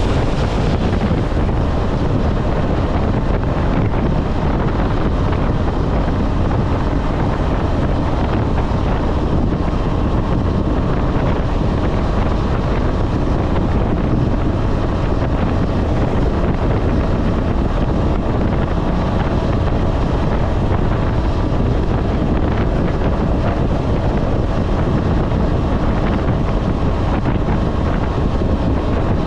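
Heavy wind noise buffeting the microphone at highway speed on a KTM 250 Adventure motorcycle, with the bike's single-cylinder engine running steadily underneath.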